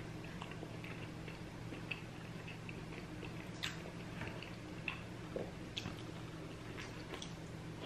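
A person chewing food close to the microphone, with scattered short mouth clicks and smacks, over a steady low hum.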